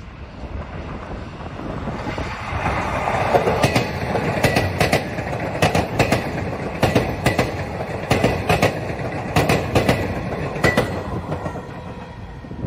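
Metro Trains Melbourne electric suburban train approaching and passing close by: a rumble that grows, then its wheels clacking over rail joints in quick pairs as the carriages go past, fading near the end.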